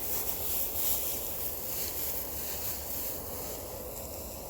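Wind rumbling on the microphone over a steady high-pitched hiss of outdoor night ambience.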